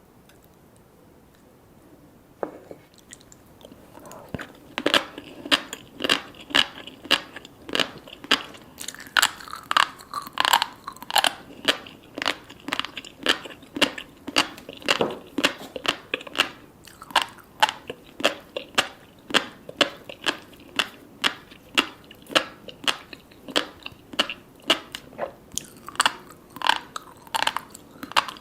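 Close-up chewing of salmon sashimi with red tobiko roe and sea grapes: after a quiet start and a small knock, rapid crunchy pops and wet chewing clicks, about two a second, begin about four seconds in and keep going.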